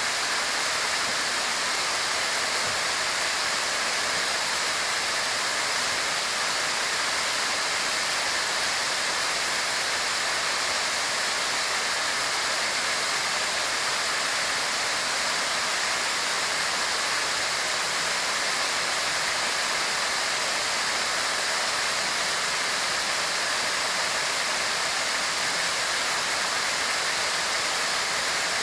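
Waterfall rushing steadily, a continuous even roar of falling water with no breaks.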